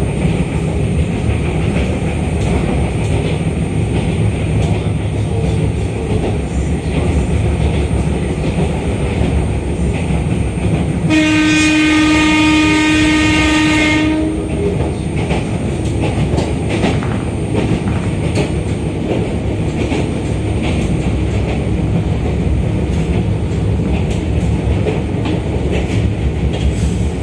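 Interior running noise of an Izukyu 2100 series electric train under way, with wheels running on the rails and faint scattered clicks. About eleven seconds in, a train horn sounds one steady note for about three seconds.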